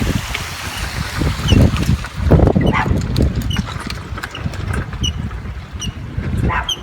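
Irregular low thumps and rumble, like footsteps and handling on a handheld microphone while walking, with a run of short high chirps repeating about twice a second in the second half.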